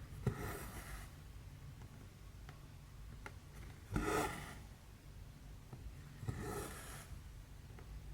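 Embroidery thread pulled through cross-stitch canvas: three soft swishes a few seconds apart, one per stitch, with a few faint ticks of the needle between them.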